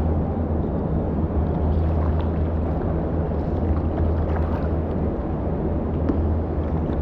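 Steady low rumble echoing inside the river tunnel, with a few faint scattered drips or ticks.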